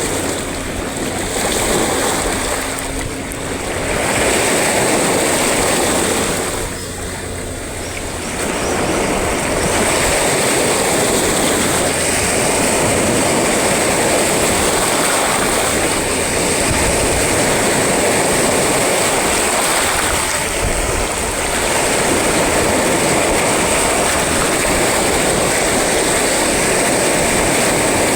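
Sea surf breaking on a shore, a continuous roar of water that eases briefly a few times. A steady high-pitched hiss runs underneath.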